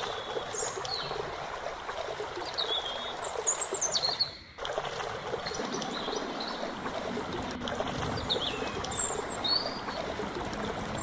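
Small birds chirping with short, repeated calls over a steady hiss of outdoor background noise. The sound drops out briefly about four seconds in.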